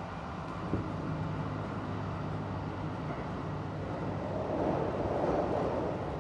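Interior running sound of a Kintetsu 1620-series electric train car under way: a steady low rumble and hum of the running gear on the rails. There is one sharp click about three-quarters of a second in, and a louder rushing swell from about four and a half seconds in that eases off near the end.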